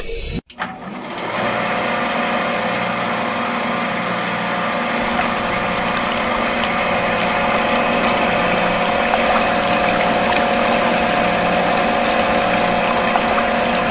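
Small electric water pump running steadily with water pouring, starting about a second in.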